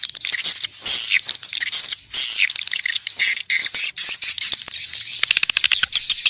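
Swiftlets calling: many high, quick chirps overlapping, turning into a fast buzzing rattle of clicks from about five seconds in. It is a swiftlet call recording of the kind played to lure swiftlets to a nesting house.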